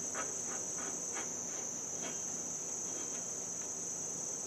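Crickets trilling in a steady high-pitched drone, with a few faint clicks in the first two seconds.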